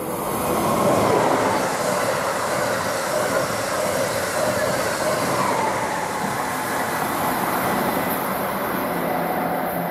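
Amtrak Acela Express high-speed trainset passing at speed, a loud steady rush of wheels on rail that swells about a second in and holds.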